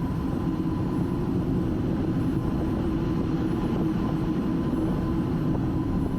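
Steady rumble and hum of a Boeing 757-200 freighter's jet engines, heard inside the cockpit at the start of the takeoff roll as the engines are brought up to a stable setting before takeoff thrust is set.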